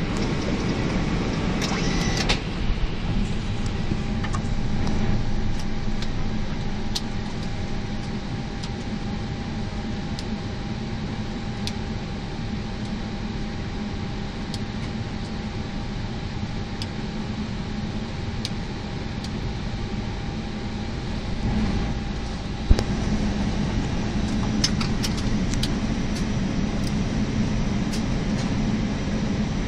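Steady cockpit ventilation and equipment hum of an Airbus A321 on the ground before engine start, with a faint steady tone that stops about three quarters of the way in. Scattered short clicks, one sharper click shortly after the tone stops.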